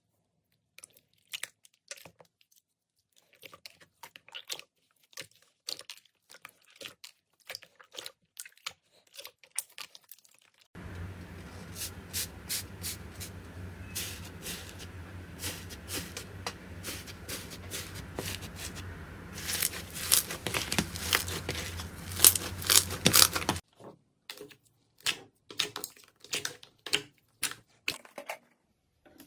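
Slime being squeezed and worked by hand, giving a string of small crackles, pops and sticky clicks. In the middle stretch a steady low hum runs under them and the crackling grows louder and denser before the hum cuts off.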